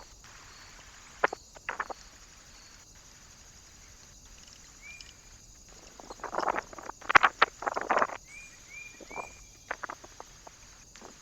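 Birds at a feeder perch: scattered scratching and pecking noises, with a louder burst of rustling and scraping about six to eight seconds in. A few faint short chirps can be heard.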